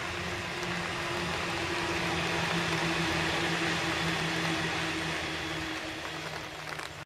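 Seibu Railway electric train running by: a steady hum of two held tones under a rushing noise that swells to a peak about halfway through and then eases off.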